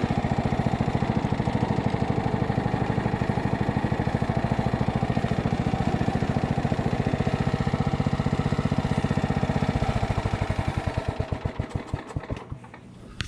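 Craftsman riding lawn mower engine running steadily, then shut off about ten seconds in, its firing slowing into separate thumps as it winds down to a stop.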